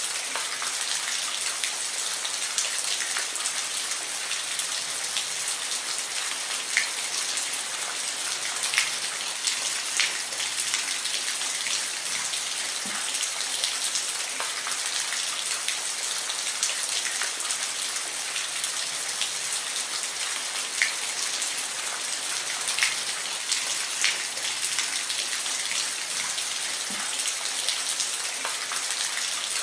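Steady rain, an even hiss with individual drops now and then landing close and sharply on a surface.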